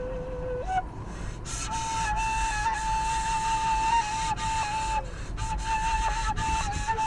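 Background music: a solo flute playing a slow melody of long held notes with small ornaments, stepping up in pitch about a second in.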